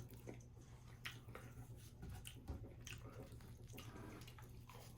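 Faint chewing and wet mouth clicks of a person eating, a few soft clicks scattered through, over a low steady hum.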